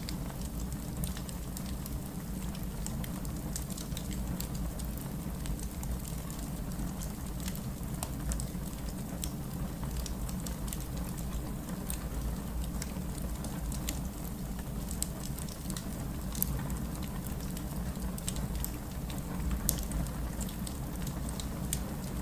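Wood fire in a fireplace crackling: many small sharp snaps over a steady low rumble, with a few louder pops in the second half.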